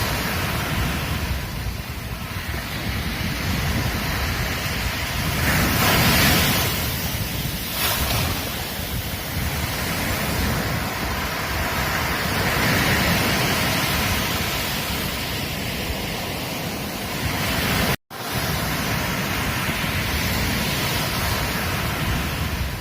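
Ocean surf washing onto a beach as a continuous rush, with louder breaking waves swelling about six and thirteen seconds in. The sound cuts out for an instant about eighteen seconds in.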